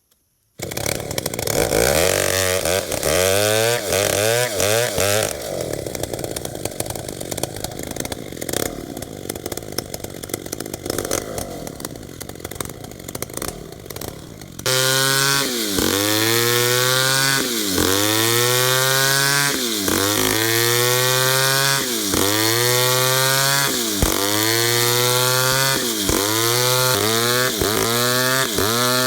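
Two-stroke chainsaw cutting tembesu wood. Through the first half it runs unevenly. From about halfway its pitch repeatedly sags under load and picks back up, about once every two seconds.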